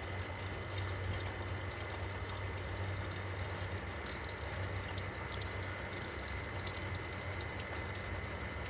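Steady background noise: an even hiss over a low hum, with a faint high tone and a few light ticks.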